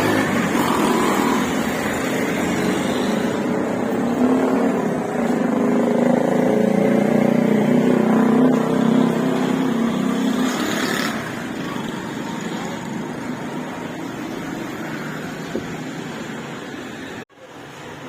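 Road traffic: motor vehicle engines running and passing, with one engine louder for several seconds around the middle. The sound cuts out for an instant near the end.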